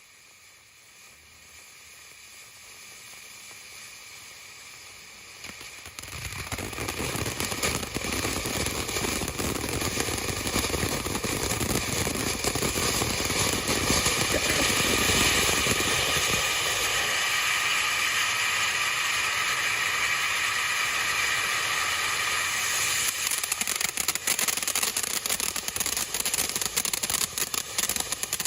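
Consumer firework fountain, the Freedom Fireworks Whimsy, spraying: a hiss that builds and then jumps to a loud, steady rushing spray about six seconds in. Near the end, dense rapid crackling takes over.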